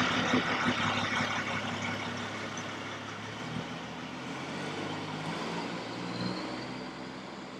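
A motor vehicle's engine running: a steady low hum that shifts pitch a couple of times and grows gradually fainter.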